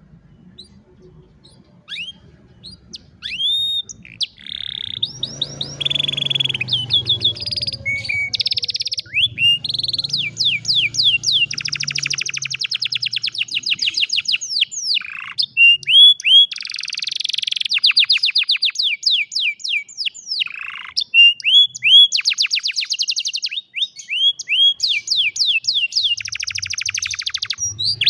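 Domestic canary singing a long continuous song of fast trills and rising chirps. The song gets going about two seconds in, after a few scattered notes.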